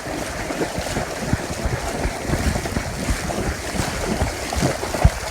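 Gusty wind buffeting the microphone over a steady wash of heavy rain and splashing water, with many short, uneven low thuds.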